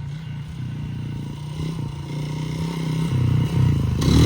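Small single-cylinder pit bike engine running at low revs, growing louder near the end.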